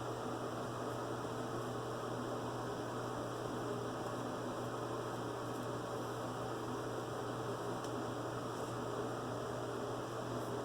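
Steady low electrical hum with a constant hiss underneath, unchanging throughout: background room tone.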